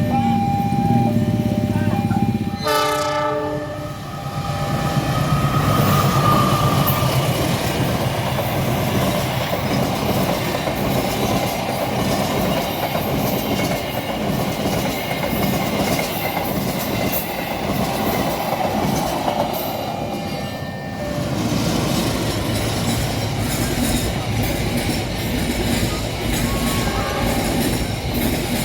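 A train sounds a short horn blast about three seconds in, then passes through the level crossing with a steady loud rumble and the rhythmic clatter of wheels over rail joints. In the first couple of seconds the crossing's warning tone sounds in broken, stuttering bursts, the 'coughing' of a faulty alarm.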